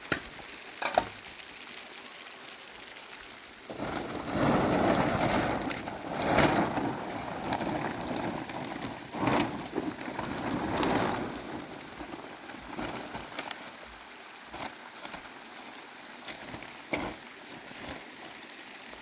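Heavy rain falling steadily, with a long rumble of thunder that swells about four seconds in and dies away after about seven seconds. A few sharp knocks sound over it.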